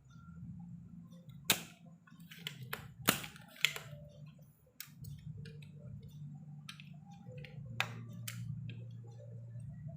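Scattered sharp clicks and knocks of handling at a workbench, several loud ones, over a low steady hum.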